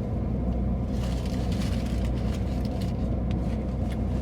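Steady low rumble of an idling car engine, with a few light crackles between about one and three seconds in.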